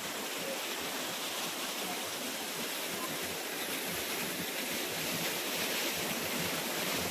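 Waterfall crashing down close by: a steady, even rush of falling water, loud enough that a speaker has to shout over it.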